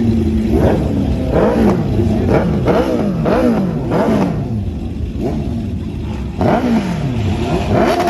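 Car engine revved over and over in quick blips, its pitch rising and falling about once or twice a second, with a short lull past the middle before it revs again.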